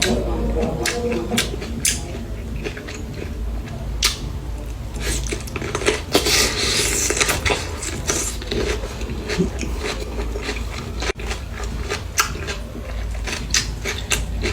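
Close-up eating sounds: chewing and crunching on salad, with many short sharp clicks and taps of utensils against the dish.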